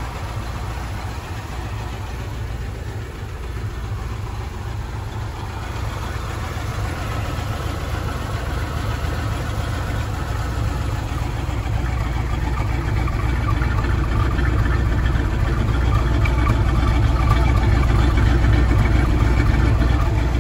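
A 1967 Mustang's 390 big-block V8 idling with a steady low rumble, growing louder over the second half as the sound is picked up low beside the car, near the exhaust.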